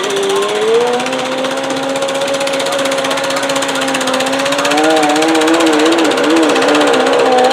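Modified pulling garden tractor's engine at full throttle under load, holding a high steady pitch. From about five seconds in the pitch wavers up and down as the revs fluctuate.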